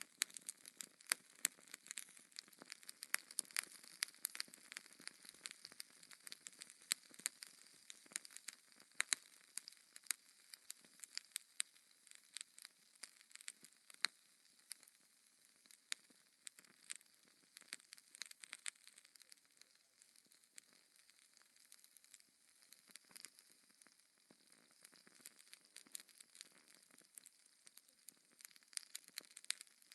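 Wood fire crackling in a fireplace: many irregular sharp snaps and pops over a soft hiss.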